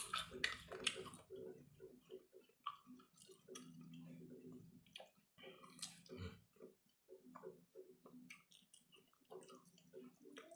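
A person chewing chicken eaten by hand, quiet, with irregular soft wet mouth clicks and smacks.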